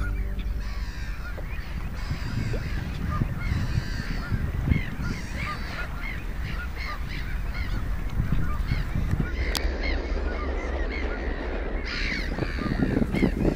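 A flock of birds calling, many short calls repeating one after another, over a steady low rush of wind and water.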